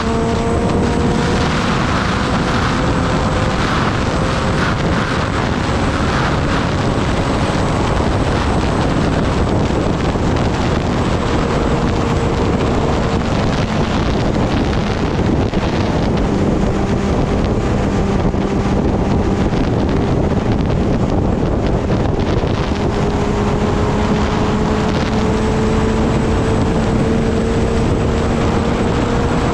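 Kawasaki Ninja ZX-10R's inline-four engine running at a steady cruise, its pitch drifting slowly up and down, under heavy wind rush on the microphone.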